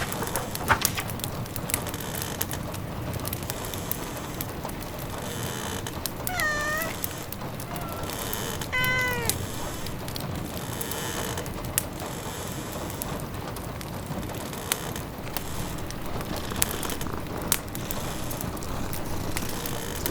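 A domestic cat meowing twice, two short calls about two seconds apart, over a steady patter of rain and the scattered snaps of a crackling wood fire.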